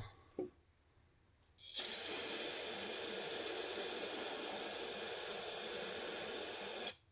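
A steady hiss of a pressurized spray nozzle, held for about five seconds after a quiet start and cut off sharply.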